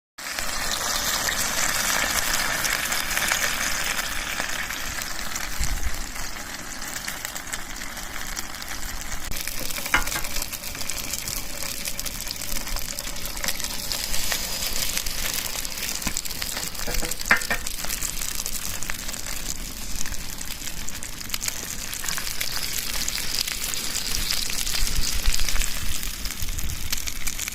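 Hamburg steak patties sizzling in a frying pan over a campfire, a steady sizzle with a few sharp crackles.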